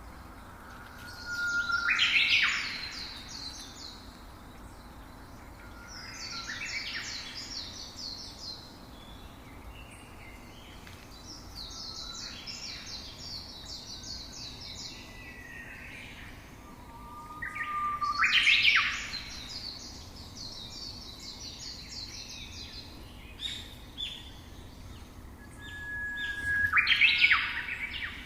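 A songbird singing the same phrase about five times. Each phrase is a short lower note, then a quick rising sweep and a rapid run of high twittering notes, with the loudest phrases near the start, around the middle and near the end.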